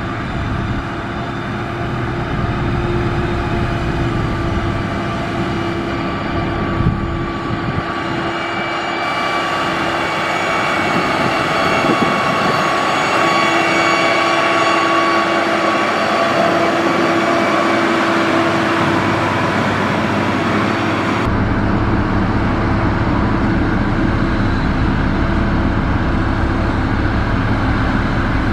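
Heavy diesel construction machinery running steadily, the engine sound changing abruptly twice, about a third and about three quarters of the way through.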